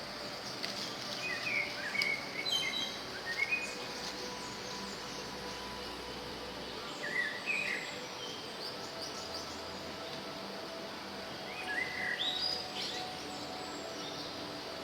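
Small bird chirping in three quick bursts of high, rapid notes, about a second in, midway and near the end, over a steady high insect drone.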